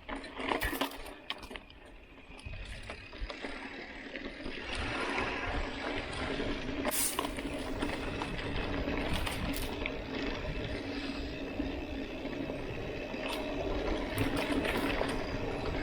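Mountain bike rolling over a dusty dirt road: steady tyre noise with clicks and rattles from the bike, louder from about four seconds in.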